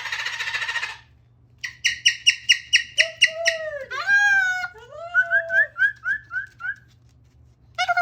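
Cockatoo vocalising: a harsh rasping call for about a second, then a quick run of clicking chatter, followed by squeaky whistled glides and a string of short rising chirps.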